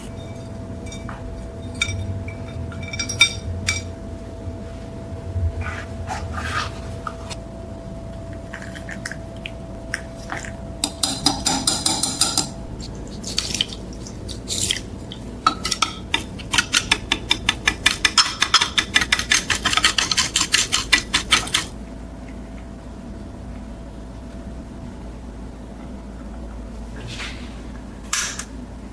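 Metal parts of a cast iron machine being handled, with scattered clinks and knocks. About midway there is a long, even run of quick metallic clicks, about five or six a second, that stops suddenly.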